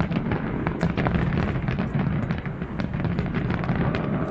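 Fireworks display: a dense, continuous barrage of bangs and crackles over a steady low rumble.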